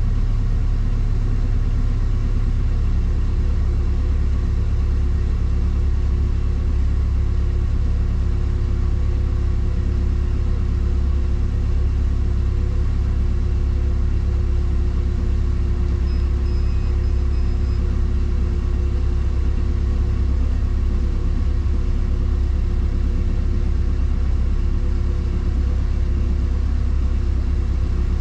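Motor cruiser's inboard engine running steadily under way, a constant low rumble.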